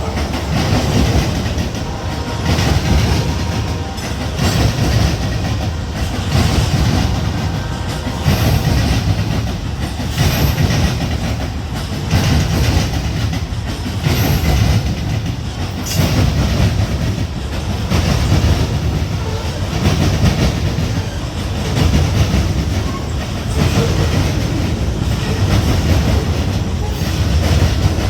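Freight train cars rolling past, their wheels clacking over the rail joints in a steady repeating rhythm, about one surge every two seconds, over a continuous rumble.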